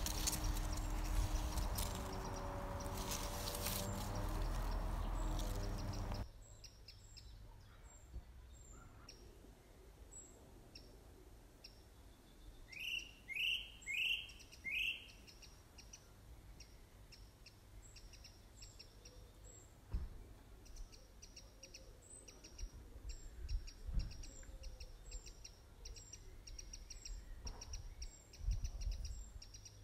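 Outdoor birdsong: many short high chirps, with four quick rising calls near the middle. It follows a louder rushing noise in the first six seconds that cuts off abruptly, and a few low thumps come in the second half.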